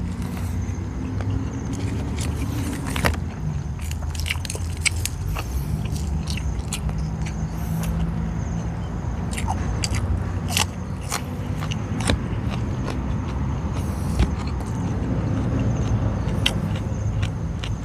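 Close-up biting and chewing of boiled vegetables dipped in bagoong, with many short wet crunches and clicks. A low steady hum runs underneath.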